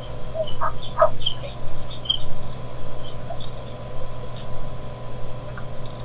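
Wild birds calling: short, high chirps scattered throughout, with two louder, lower calls about half a second and a second in, over a steady low hum.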